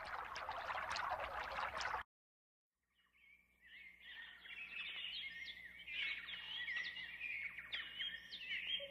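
Birds chirping and twittering: many overlapping high calls with quick rising and falling glides, building up from about three seconds in. Before that, a hissing rush cuts off suddenly about two seconds in and is followed by a short silence.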